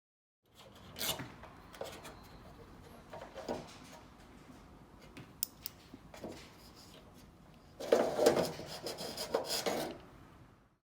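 Hand work on the small parts of a front-door latch: scattered scrapes and light clicks, then a louder, denser run of rubbing and scraping about eight seconds in.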